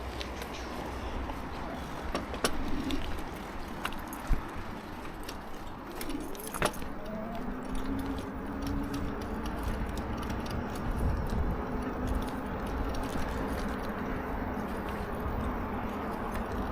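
Lectric XP4 e-bike riding over a bumpy path: wind rumble on the microphone with scattered rattles and clicks from the bike jolting over bumps, and a faint steady hum from about seven seconds in.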